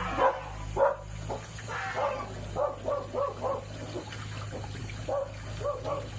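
A dog barking and yapping in a series of short, repeated calls, over a steady low hum.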